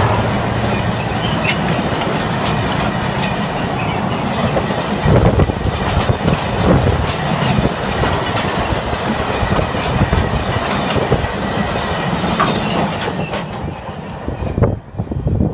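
Freight train passing close by: a low locomotive drone at first, then the continuous rattle of wagons with many wheel clicks over the rails, getting quieter near the end.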